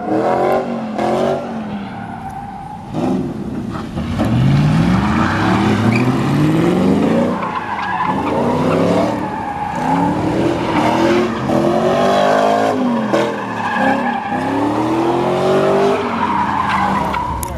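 Truck engines revving hard again and again, the pitch climbing and dropping over a second or two each time.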